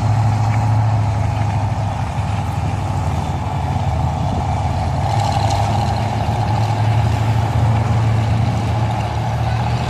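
Several demolition derby trucks' engines running together, a loud steady rumble.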